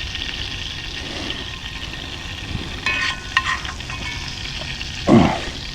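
Butter-coated cinnamon-roll dough on skewers sizzling steadily on a hot grate over a campfire. A few brief sharp sounds come about three seconds in, and a short louder sound near the end.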